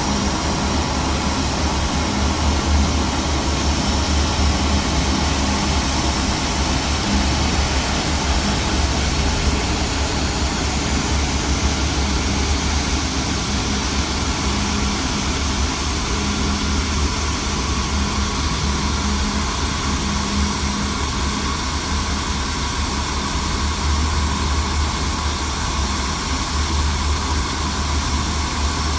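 Steady jet noise from an Airbus A350-900: a constant low rumble with a broad hiss over it, unchanging throughout.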